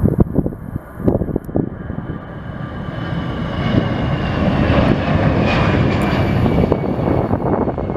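Jet airliner's engines passing: a rumbling roar builds from about two seconds in and stays loud through the middle, with a whine that slowly drops in pitch. Wind buffets the microphone in the first second or so.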